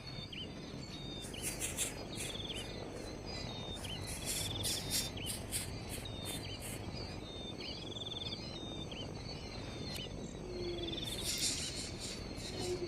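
Outdoor nature ambience: short high trilled calls and quick upswept chirps repeating every couple of seconds, with bursts of high insect rasping and a steady low background rumble.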